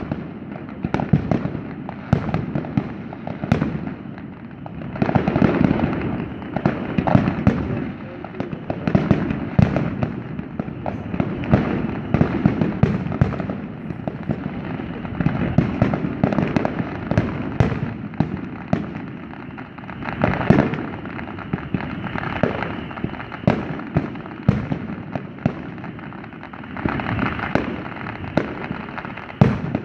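Aerial fireworks shells bursting one after another, several pops a second, with louder spells about five, twenty and twenty-seven seconds in.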